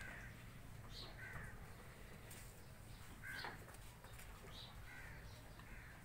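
Birds calling faintly, a run of short calls about once a second, over a low steady rumble.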